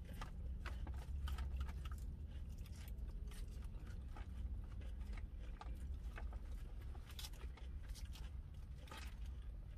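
Close chewing and crunching of a salad of lettuce, apple and pecans, with forks clicking and scraping in clear plastic salad bowls, many small sharp crackles over a steady low rumble.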